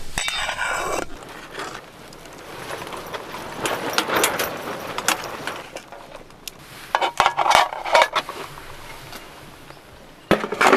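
Handling noises: rustling in short bursts with scattered light clicks and clinks.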